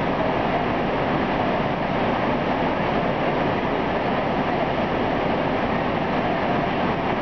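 Steady rumble and hiss of a diesel train standing at an enclosed underground platform, unchanging throughout, with a faint steady whine underneath.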